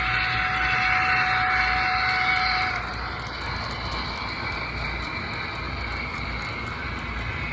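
Lionel O-gauge 0-6-0 Reading switcher running on the track with tank cars in tow: a steady whirring running noise of motor and wheels on rails. A steady tone in it cuts off about three seconds in, and the sound then drops a little quieter.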